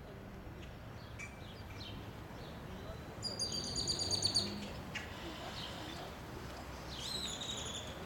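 Bird calls over a steady low street hum: a rapid, high chirping trill about three seconds in, lasting about a second, and a shorter high call near the end.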